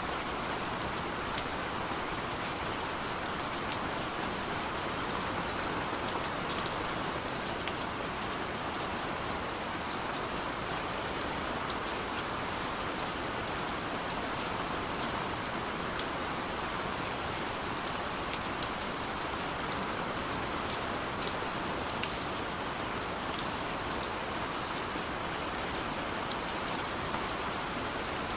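Heavy rain falling steadily, a continuous hiss dotted with scattered sharper taps of individual drops striking a surface.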